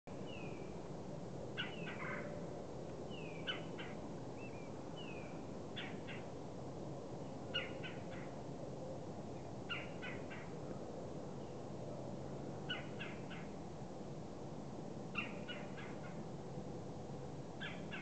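Bird calls: short clusters of two to four quick clicking notes repeated about every two seconds, with a few brief falling whistles in the first five seconds, over a steady low background hum.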